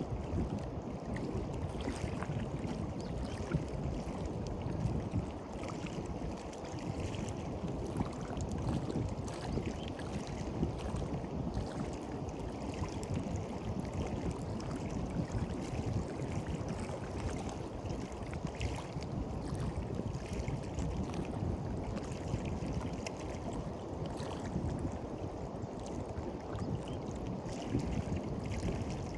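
Sea waves washing onto the beach in a continuous wash with a fine fizz, and wind rumbling on the microphone.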